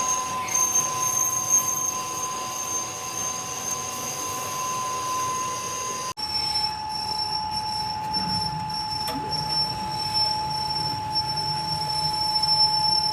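A workshop machine whining steadily with a high, squeal-like tone over a running noise. It cuts off sharply about six seconds in and picks up again at a slightly lower pitch.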